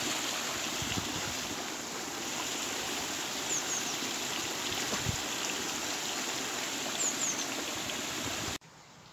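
Steady rushing of running water, with a few faint high chirps over it; the sound cuts off abruptly near the end.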